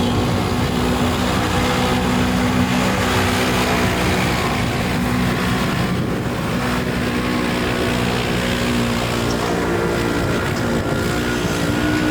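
Stock side-by-side UTV engine running hard under load, its note wavering and climbing a little near the end, over a steady rushing wash.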